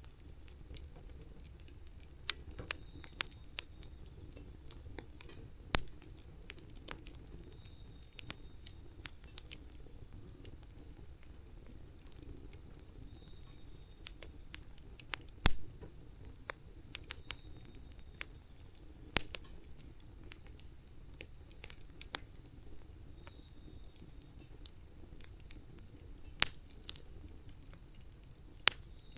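Wood fire crackling: irregular sharp pops and snaps over a low steady rumble, the loudest snap about halfway through.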